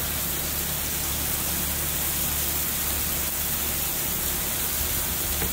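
Marinated chicken fajita strips frying in hot oil on an electric griddle, with a steady sizzle.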